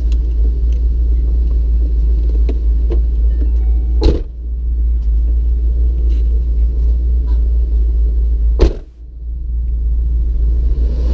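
Steady low rumble of a car, heard from inside the cabin, broken by two sharp thumps about four and eight and a half seconds in.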